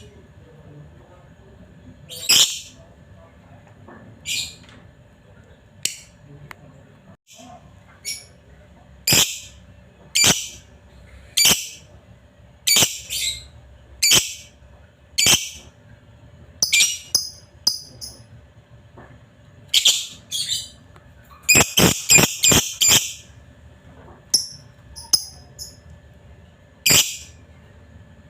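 Lovebird giving short, sharp, high-pitched chirps about once a second, with a quick run of several calls about three-quarters of the way through.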